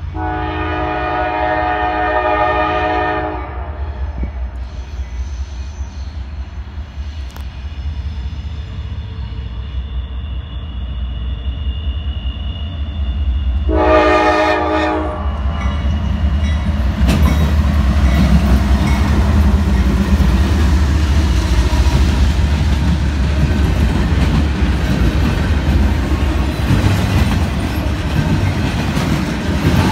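Diesel freight locomotive horn sounding a long chord-like blast at the start and a shorter one about fourteen seconds in, over the low rumble of the engines. From about seventeen seconds the locomotives and cars pass close by, louder, with wheels clattering on the rails.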